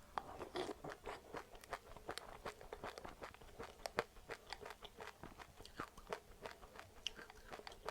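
Close-up chewing and crunching of small seeds such as sesame, flax and passionfruit seeds, many quick sharp crunches a few times a second.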